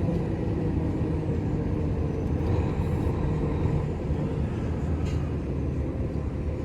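Truck's diesel engine running with a steady low drone.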